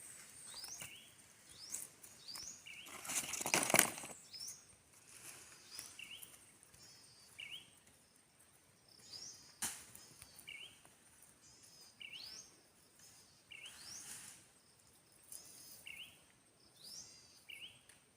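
Birds chirping repeatedly outdoors, short rising notes about once a second, with a brief burst of rustling noise a few seconds in and a single sharp click midway.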